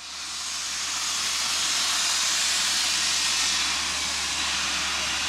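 Steady hiss of steam escaping from the steam locomotive BR 41313, an Ivatt Class 2 2-6-2T tank engine, swelling up over the first second or so.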